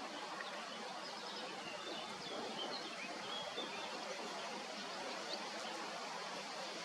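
Steady outdoor background hiss with faint bird chirps high above it, several short calls between about a second and a half and five and a half seconds in.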